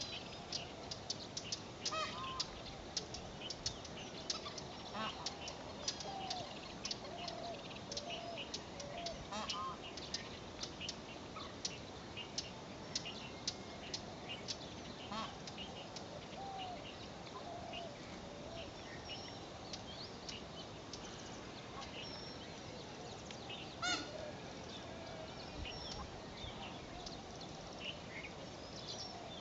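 Birds chirping and calling: a busy run of short, high chirps that thins out after about halfway, with lower calls scattered through and one louder call near the end.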